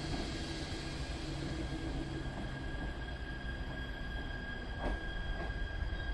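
Echigo TOKImeki Railway ET127-series electric train approaching slowly, its wheels rumbling low on the rails under a steady high whine. A couple of faint clicks come about five seconds in.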